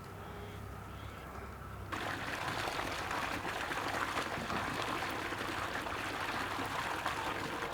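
Water being poured in a steady stream, starting suddenly about two seconds in and stopping abruptly near the end.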